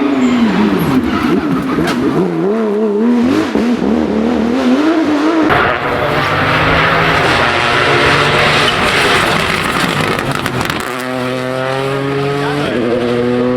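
Rally car engine at speed: its note wavers up and down for the first few seconds, gives way to a loud rushing noise through the middle, then climbs steadily in pitch through the gears near the end, with an upshift shortly before the end.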